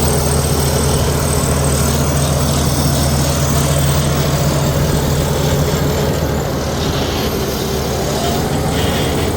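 Heavy diesel engine of earthmoving machinery running steadily, a low even drone with mechanical noise over it.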